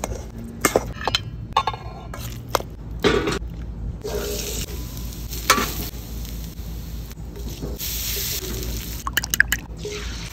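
A metal potato masher knocks and clacks in a stainless steel bowl as it mashes avocado. From about four seconds in, diced potatoes and onions sizzle steadily on a hot griddle while a metal spatula stirs and scrapes them, with a few sharp scrapes near the end.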